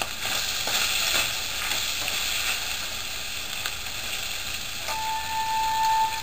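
Chicken, celery, green pepper and cashews sizzling in hot oil in a wok while a spatula stirs and scrapes them, the stirring strokes strongest in the first second or so. A steady tone comes in about five seconds in.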